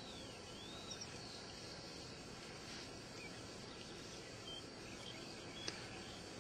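Steady rush of water running and falling from a small irrigation canal into a rice field, with a few bird chirps and a steady high insect trill over it. One sharp click near the end.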